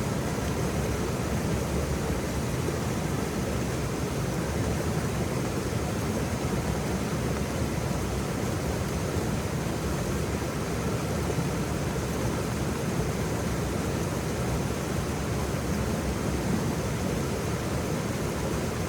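Waterfall: a steady rush of falling water, deep and unchanging.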